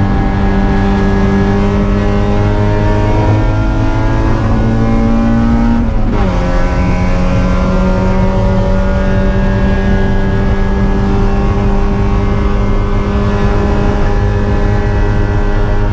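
Spec Miata race car's four-cylinder engine pulling hard under full throttle, its pitch climbing slowly. About six seconds in, an upshift drops the revs sharply, and the engine pulls on at a steady, slowly rising pitch.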